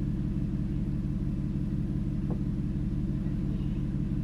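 Ford Taurus engine running steadily at an even pitch, with one faint knock a couple of seconds in.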